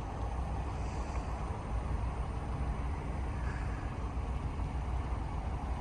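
Steady low rumble of distant vehicles, even throughout with no distinct horn or single passing vehicle standing out.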